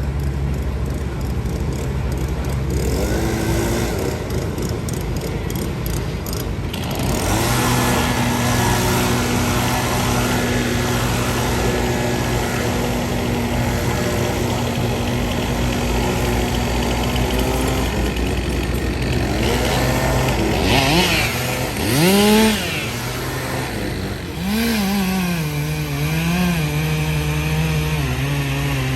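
Chainsaw running, revving up and down several times in the second half, over a steady low engine drone.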